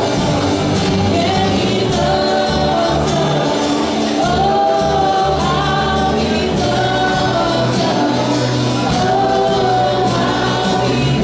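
Live congregational worship music: a gospel-style band with choir or group singing, held, sustained sung notes over a steady bass accompaniment.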